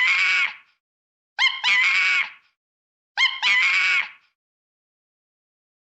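A high-pitched animal call, the same sample played three times about a second and a half apart, each a quick double note running into a longer held cry.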